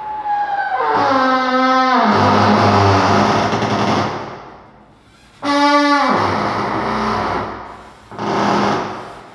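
A harsh sound effect: a pitched tone that slides down in pitch and breaks into a loud noisy blare, twice, about five seconds apart, with a shorter blare near the end.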